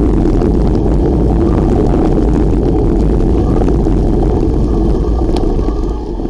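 Loud, steady wind rumble buffeting the microphone while cycling, easing off near the end.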